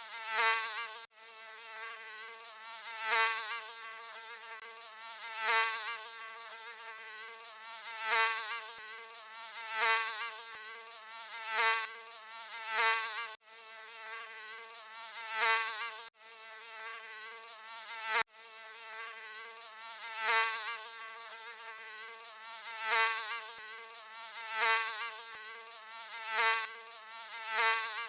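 Mosquito buzzing: a continuous whining buzz that swells louder and fades back about every two to three seconds, like a mosquito flying close past the ear. It is cut by a few sudden, very brief dropouts.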